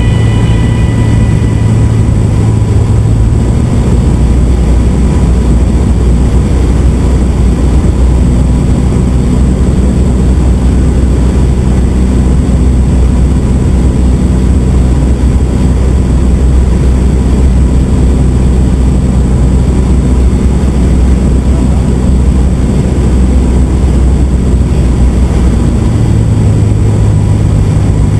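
Cessna 172's piston engine and propeller droning steadily, heard from inside the cabin. The engine note drops to a lower pitch about four seconds in and comes back up near the end.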